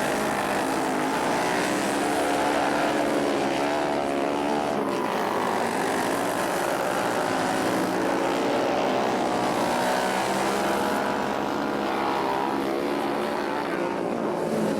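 Several flat-track racing motorcycles running together around the dirt oval, their engines rising and falling in pitch as they wind up on the straights and back off into the turns.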